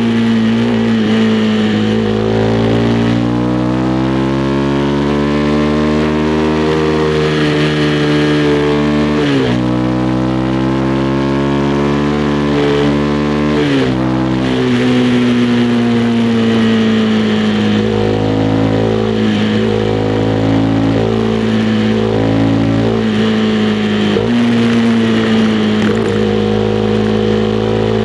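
Honda CB300R's single-cylinder engine pulling under way, its pitch climbing slowly and then dropping sharply at two upshifts, after about nine seconds and again about five seconds later, then running at a fairly steady cruise with small dips.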